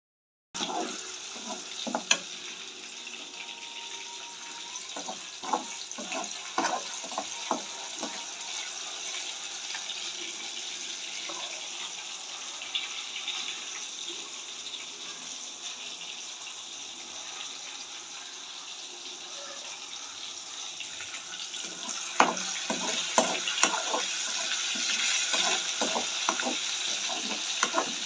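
Kitchen cooking sounds: a steady hiss with scattered knocks and clatter of utensils. The hiss grows a little louder near the end, with a quick run of knocks.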